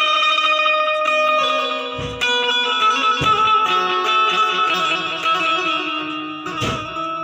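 Indian banjo (bulbul tarang) being played: a melody of bright plucked metal-string notes that ring on, with a few heavier strokes about two, three and six and a half seconds in.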